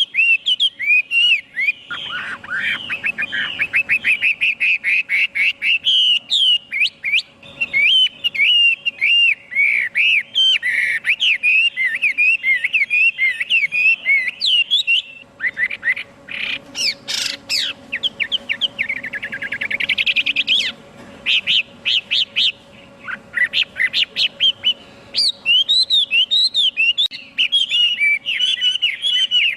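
Chinese hwamei singing a long, varied song of quick whistled phrases without pause, broken by fast trills a couple of seconds in and again around the middle.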